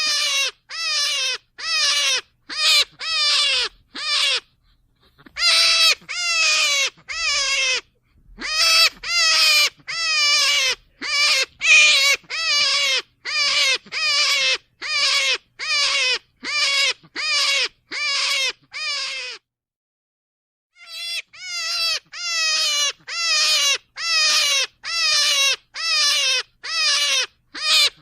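Rabbit calls: short calls, each falling slightly in pitch, repeated about twice a second, with two brief pauses, one about five seconds in and one about twenty seconds in.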